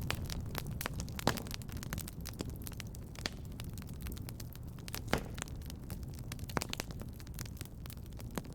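Wood fire crackling in a fireplace: irregular sharp snaps and pops over a low steady rumble, with a few louder snaps scattered through.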